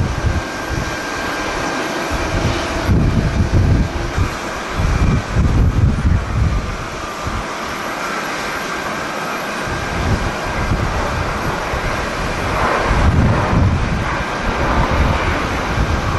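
Strong gusty wind buffeting the microphone in irregular low surges, over the steady rush of jet airliner engines with a faint high whine.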